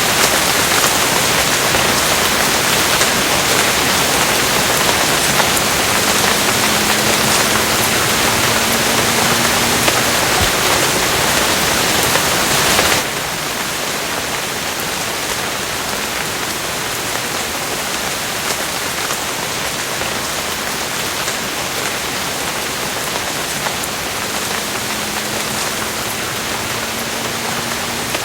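Steady rain, a dense even hiss of falling drops. About halfway through it drops abruptly to a softer, duller level.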